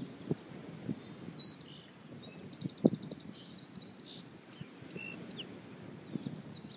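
Small songbirds chirping and twittering in short, quick notes, with a rapid trill about two seconds in. Several dull low thumps break in, the loudest a sharp knock about three seconds in.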